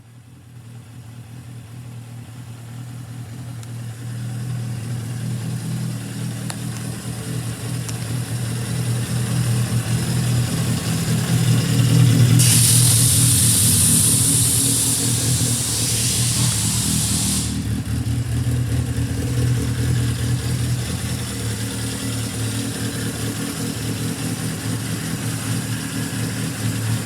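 Suzuki GSX750S Katana's air-cooled inline-four engine running steadily, growing louder over the first dozen seconds and then holding. A loud hiss lies over it for about five seconds midway.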